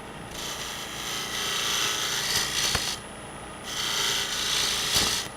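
Turning tool cutting spinning hard maple on a wood lathe, a hissing, rasping cut in two passes with a short break between them, as the lid's recess is opened up toward size. A sharp click near the end.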